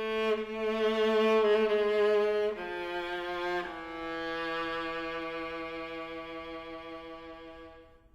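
Bowed strings playing a slow, Middle Eastern–flavoured passage: sustained notes that shift pitch a couple of times, then one long held note that fades away near the end.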